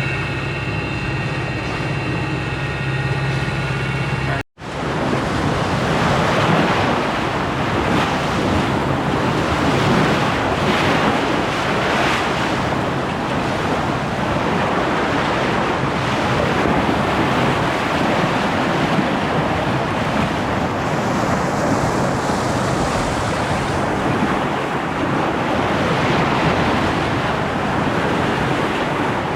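A sailboat's engine drones steadily with a low hum. About four and a half seconds in it cuts off abruptly, and loud wind buffeting the microphone and water rushing along the hull take over.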